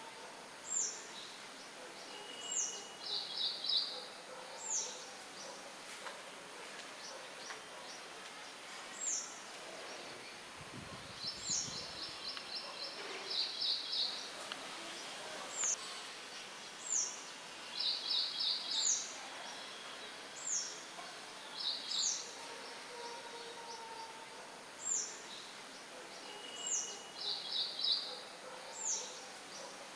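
Songbirds chirping over a steady hiss of wind: one bird repeats a short, high, down-slurred chirp every second or two, with several fast trilled phrases in between. A brief low rumble comes about ten seconds in.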